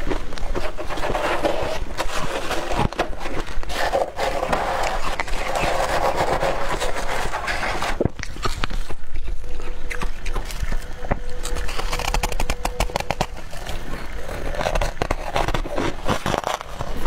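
Close-up crunching and chewing of dry freezer frost chunks: a dense, uneven run of crisp crackles and crunches, with a quick flurry of sharp crackles in the middle.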